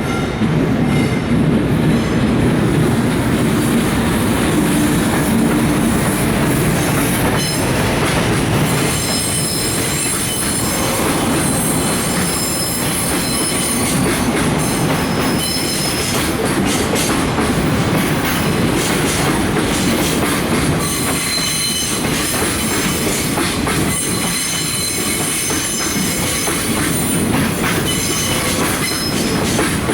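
Container freight train hauled by an EF510 electric locomotive rolling slowly into a station: the wagons clatter over the rail joints, with high-pitched wheel squeal as the train slows on arrival. The squeal grows and stays from about a quarter of the way in.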